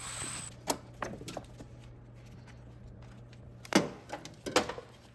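Scattered clicks and knocks from hand work in a car's engine bay, with a short hiss at the start, over a steady low hum.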